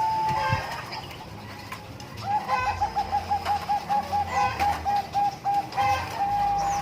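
Bangkok-bred zebra dove (perkutut) singing: a held coo fading out just after the start, then about two seconds in a long run of quick short coos, about four or five a second at the same pitch, closing on a long held note. Chickens cluck a few times over it.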